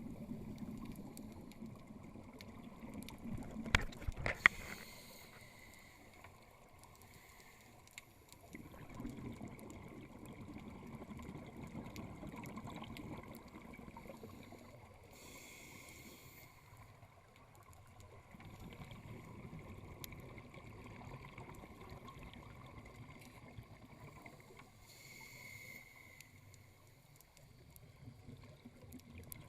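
Scuba diver breathing through a regulator underwater: slow breathing cycles, with long low gurgling stretches of exhaled bubbles alternating with short hisses about every ten seconds. A couple of sharp knocks come about four seconds in.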